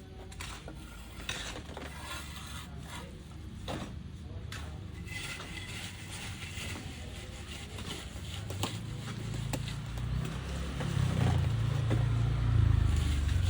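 Steel plastering trowel scraping and tapping against cement plaster on a wall, in scattered clicks and scrapes. A low rumble builds up toward the end.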